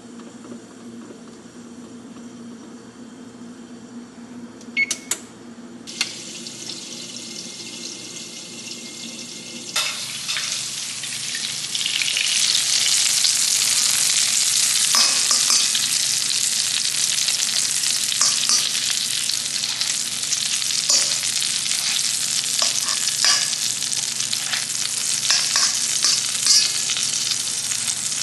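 Food dropped into a hot pan and sizzling. The frying starts suddenly about ten seconds in, grows over the next couple of seconds and keeps going, with clicks and scrapes of stirring. Before it there is only a steady low hum and a couple of short clicks.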